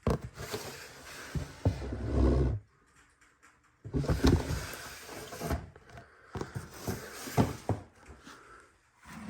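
Three bursts of rustling and knocking as snake enclosures are handled during feeding, with a heavier low thump about two seconds in.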